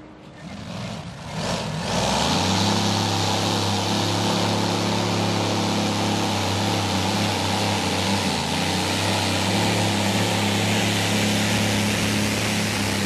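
V12 Transmash diesel of a light modified pulling tractor working at full power on the pull. It builds up over the first two seconds, then runs loud and steady, with a brief dip about eight seconds in.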